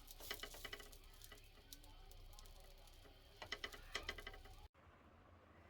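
Two short bursts of rapid small clicks, the first right at the start and the second a little past three seconds in, over faint room noise; the sound cuts off abruptly near the end.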